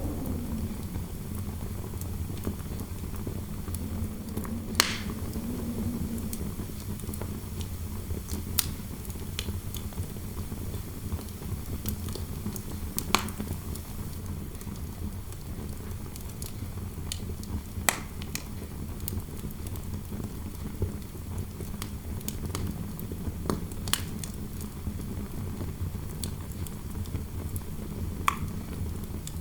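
Fireplace fire crackling, with sharp wood pops every few seconds, over a steady low rumble of wind in the room. A faint low wind howl wavers near the start and again briefly a few seconds in.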